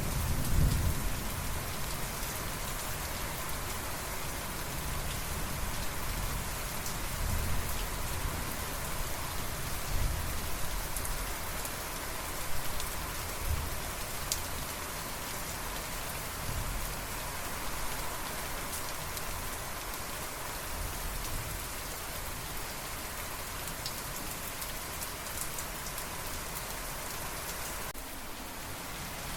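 Steady rain falling, with a low rumble of thunder dying away in the first second or so and fainter low rumbles now and then.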